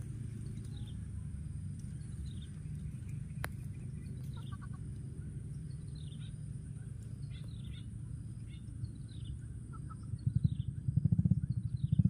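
Faint small bird chirps repeating every second or so over a steady low rumble, with one sharp click about three and a half seconds in. From about ten seconds in a loud, rapid low pulsing takes over.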